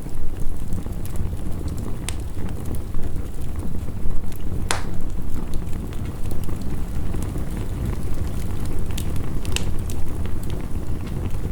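Wood fire crackling with scattered sharp pops, the loudest about five seconds in, over a steady low rumble of heavy rain.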